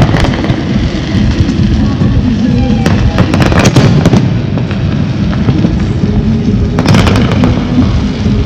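Fireworks display: shells bursting in continuous low booms, with rapid crackling about three seconds in and again near seven seconds.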